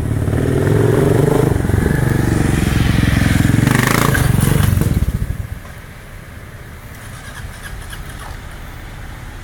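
Kawasaki KLR 650 single-cylinder motorcycle engine running hard under the rider, its pitch rising and falling with the throttle. About five seconds in the sound falls away sharply as the bike moves off, leaving a much quieter background.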